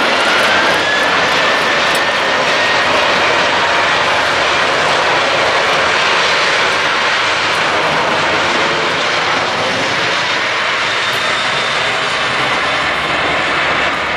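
Jet airliner's engines roaring as it passes close by, a steady loud rush with a faint whine rising in pitch about a second in. The roar eases slightly toward the end.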